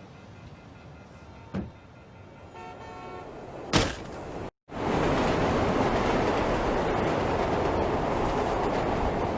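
Faint short telephone tones and a click, then a sharp knock about four seconds in. After a brief cut, the steady loud rumble of a subway train running.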